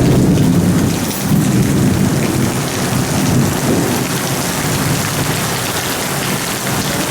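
Thunderstorm: steady rain falling under a low, rolling rumble of thunder that swells about a second in and again a few seconds later.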